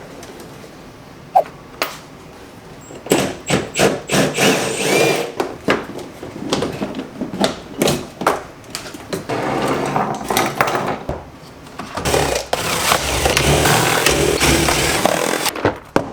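Hand-tool and parts-handling noise while working on a car: scattered clicks and knocks, a sharp knock about a second and a half in, and several longer stretches of scraping and rattling.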